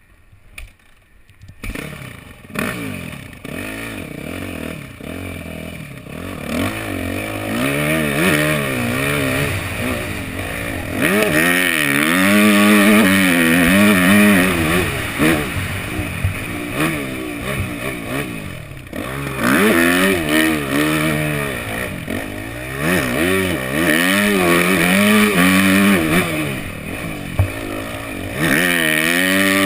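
Yamaha 250F motocross bike's four-stroke single-cylinder engine, starting after a brief near-quiet moment and then revving hard and easing off over and over, its pitch climbing and falling as it rides and shifts.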